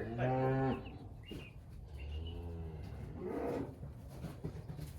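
Cattle mooing: one loud bawl right at the start, then a lower, quieter moo about two seconds in.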